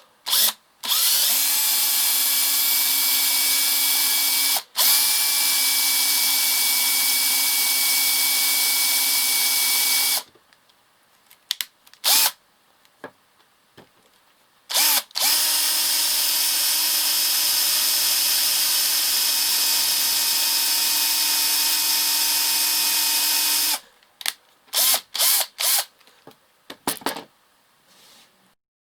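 Vikhr DA-18L-2KU cordless drill/driver running at a steady speed in two long runs. Each run spins up quickly. The first run cuts out briefly partway through. Short bursts from quick trigger pulls come between the runs and near the end.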